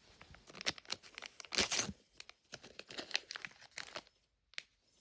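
Thin plastic wrapping on a Mini Brands capsule ball being torn and crinkled open by hand. A run of sharp crackles and rustles, loudest a little under two seconds in, thins out after about four seconds, with one last click near the end.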